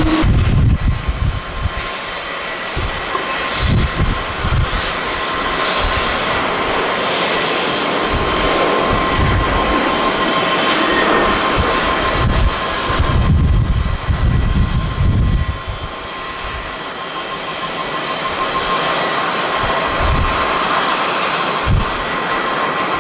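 Jet airliner engines running, a broad steady roar with a thin whine held through it. Strong gusts of wind buffet the microphone in irregular low thumps.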